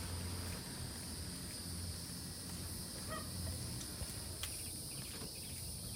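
Steady high insect drone, like crickets, over a low hum, with a few short chirps coming in near the end.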